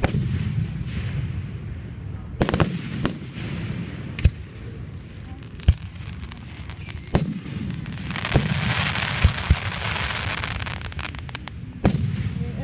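Aerial fireworks going off: a string of sharp booms every second or so, with a dense stretch of crackling about two-thirds of the way through.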